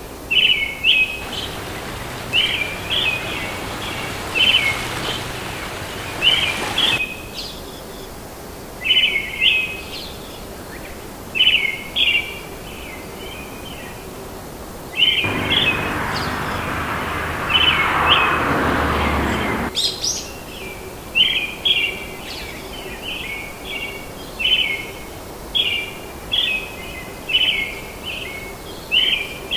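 A bird calling over and over in short chirping phrases, roughly one a second. Twice a rushing noise comes in and cuts off abruptly, once for about six seconds near the start and again for about five seconds in the middle, the second stretch louder and deeper.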